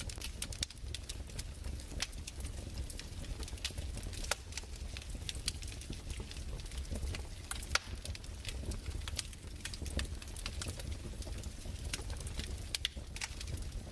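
Wood fire crackling: irregular sharp snaps and pops over a low, steady rumble.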